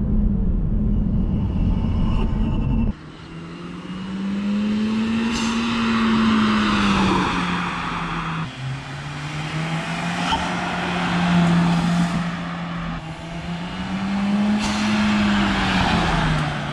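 Big-turbo second-gen Chevrolet Cruze engine, heard first from inside the cabin as a steady low drone at low RPM. About three seconds in it is heard from the roadside instead, driving past several times, its engine note rising and falling in pitch with each pass.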